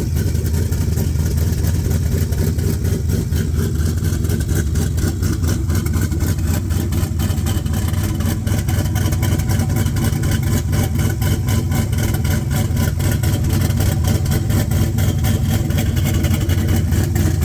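Pontiac G8 GXP's 6.2 L LS3 V8 with a TSP F35 camshaft, idling steadily with a deep exhaust rumble.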